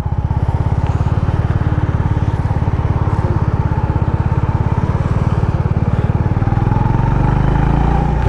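Honda motorcycle engine running with an even, pulsing beat as the bike pulls away at low speed from the dirt shoulder onto the road; the engine gets louder about seven seconds in as the rider opens the throttle.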